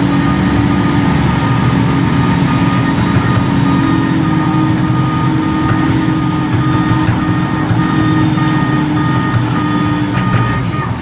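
Reach stacker's heavy diesel engine running steadily, with a steady whine above the low rumble.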